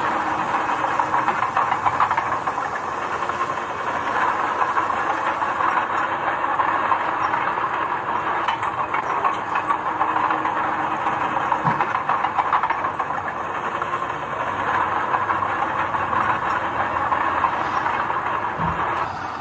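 Earth-moving machinery working, a steady rattling hiss with many small clicks and knocks, with no clear engine note over it.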